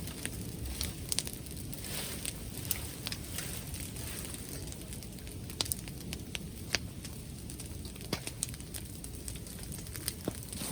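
Wood bonfire crackling, with sharp irregular pops a few times a second over a low steady rumble.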